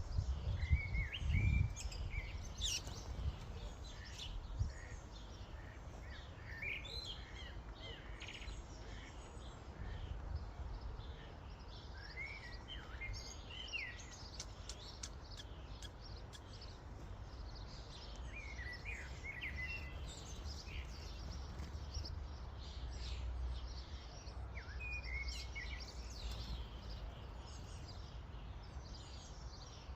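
A flock of common starlings chattering at a feeder: scattered whistles, squeaks and a few sharp clicks, over a steady low rumble.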